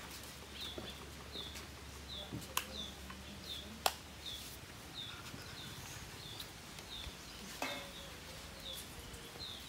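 A small bird chirping over and over at a steady pace, each chirp short and falling in pitch, with a couple of sharp clicks about two and a half and four seconds in.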